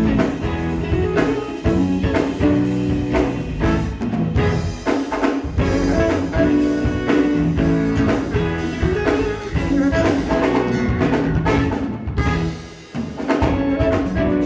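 Live band playing an instrumental passage between sung lines, with drum kit and guitar. The music dips briefly near the end.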